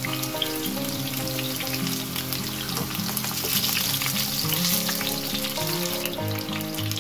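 Zucchini slices sizzling and crackling steadily as they fry in oil in a hot grill pan, with background music playing under it.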